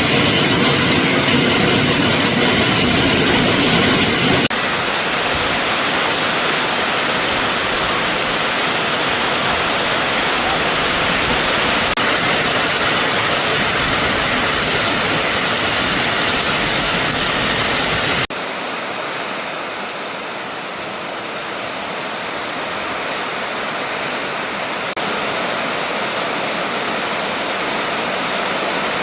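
Steady, loud noise of heavy rain and strong wind. It changes abruptly about four seconds in and again about two-thirds of the way through, and is quieter in the last part.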